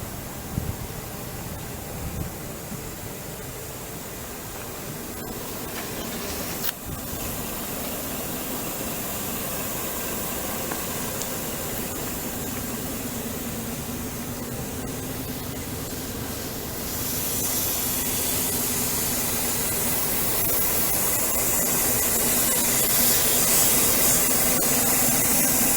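Scania 124L 420 truck's 11.7-litre diesel engine idling steadily under a strong hiss, which grows louder about 17 seconds in.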